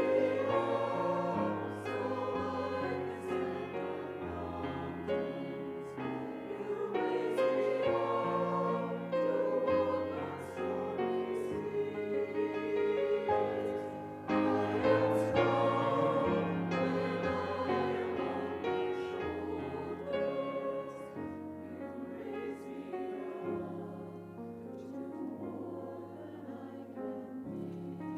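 Voices singing together in chorus, a slow hymn-like piece with held chords from a keyboard accompaniment.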